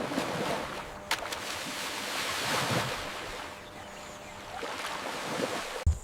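Rushing water, like waves washing, swelling about two seconds in and fading, with a sharp click about a second in; it cuts off abruptly near the end.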